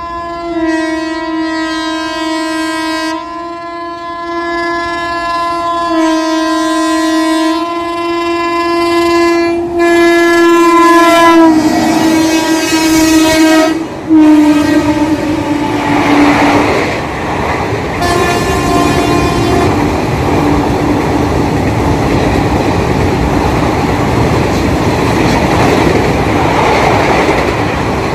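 An Indian Railways electric locomotive's horn sounds in long blasts as the train approaches, its pitch dropping about twelve seconds in as the locomotive passes, with a last short blast soon after. The passenger coaches then roll past with steady wheel and rail clatter.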